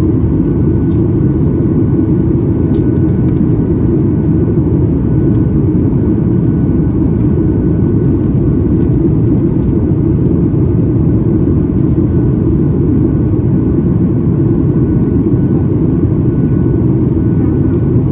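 Steady roar of a Boeing 737 MAX 8's engines and airflow heard inside the passenger cabin, even and unchanging, mostly low-pitched, with a faint steady whine above it.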